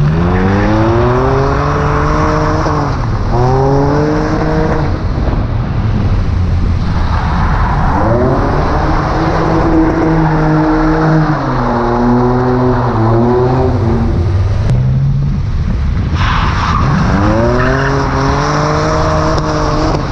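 Straight-six engine of a BMW E30 335i (3.5-litre M30B35), heard from inside the car while it is driven hard. The revs climb steeply several times as it accelerates and shifts, and waver up and down in the middle.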